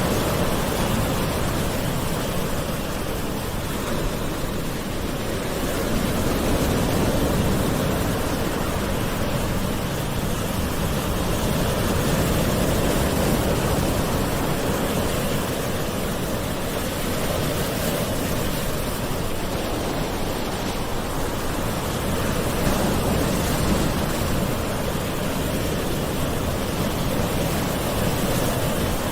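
Gentle ocean waves washing in, a steady rushing with slight slow swells in loudness.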